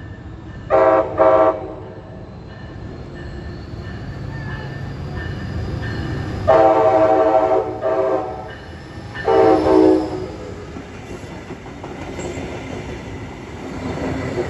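Florida East Coast Railway freight locomotive sounding its multi-note horn over the steady rumble of the train: two short blasts about a second in, a long blast at about six and a half seconds, and another blast near ten seconds. The rumble grows louder as the train comes closer.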